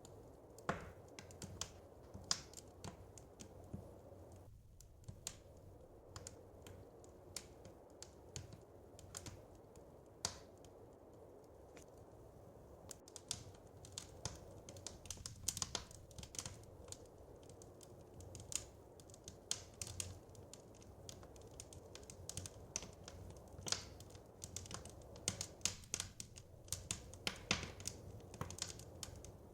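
Wood fire crackling: irregular sharp pops and snaps over a low steady rumble, coming more thickly in the second half.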